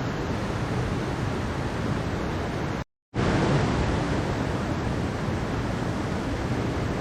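Mountain stream water rushing steadily, cutting out completely for a moment about three seconds in before resuming.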